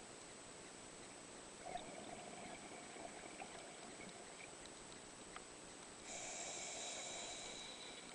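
Faint breathing of a scuba diver through a demand regulator underwater. A thin, wheezy tone is drawn from about two seconds in, and a louder hissing breath comes about six seconds in.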